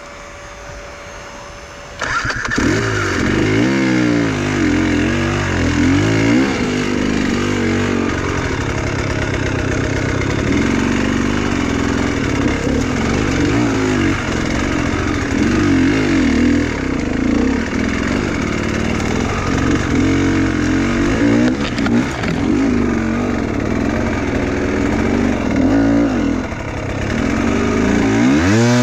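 Enduro motorcycle engine revving hard and unevenly, its pitch rising and falling again and again. It comes in abruptly about two seconds in, after a quieter steady hum.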